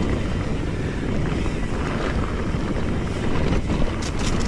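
Steady rushing noise, like wind buffeting the microphone, with a few sharp clicks about four seconds in.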